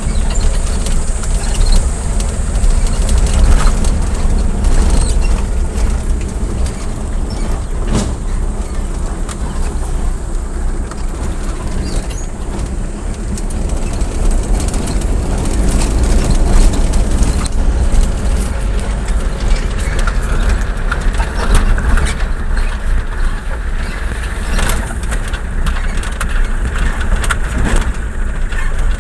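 Steady rumble of a moving road vehicle, with scattered rattles and knocks.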